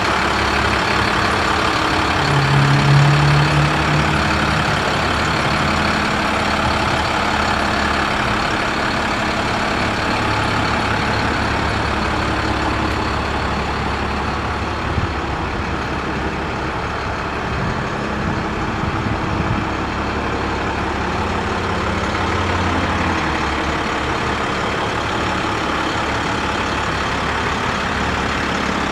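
International 7300 truck's MaxxForce DT diesel engine running steadily, with a brief louder low hum about three seconds in.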